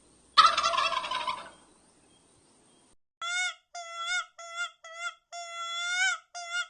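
A turkey gobbling once, a rapid rattling burst about a second long. About two seconds later a run of short, clear, high-pitched calls follows, several in quick succession.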